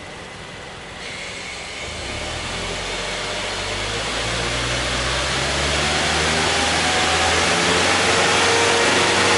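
Toyota Hilux Surf SSR-X engine and exhaust revved slowly and steadily. The pitch climbs and it grows steadily louder, with a step up in level about a second in.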